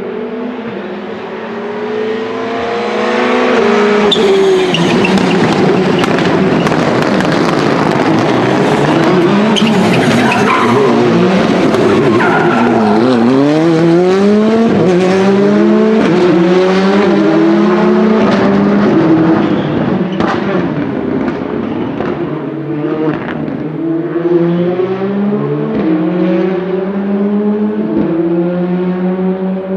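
Rally car engines revving up and down through the gears on braking and acceleration, with sharp crackles from the exhaust and tyres squealing. The loudest stretch runs from about three seconds in until about two-thirds through, then eases a little.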